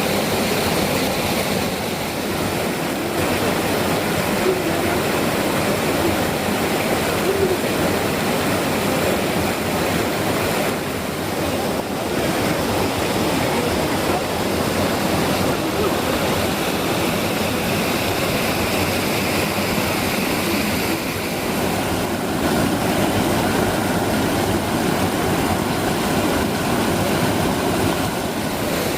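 Water rushing and splashing steadily down a mountain waterfall, an even, loud rush with no let-up.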